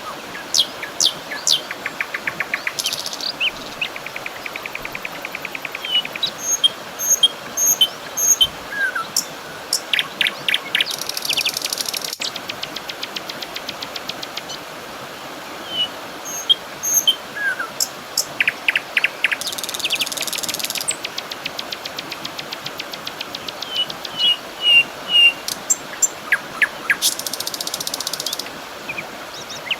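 Songbirds chirping and calling, with short high notes throughout and several rapid buzzy trills every several seconds, over a steady background hiss.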